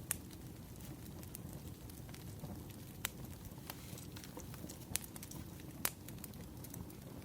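Wood fire burning: a steady low rumble with scattered sharp crackles and pops, the loudest about three seconds in, twice near the five-second mark, and right at the start.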